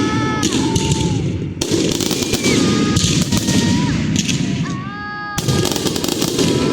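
Fireworks going off in a dense, rapid crackle of bangs, with fresh salvos starting about a second and a half in and again near the end. Several held whistling tones sound over the crackle and slide down in pitch as they fade.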